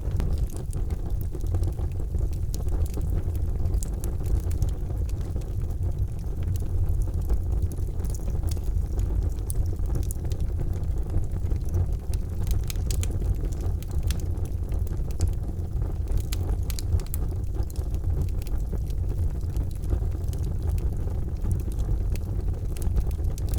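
Charcoal fire burning: scattered sharp crackles and small pops over a steady low rumble.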